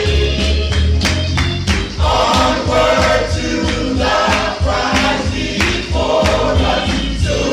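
Choir singing gospel music over a band, with a strong bass and drums keeping a steady beat.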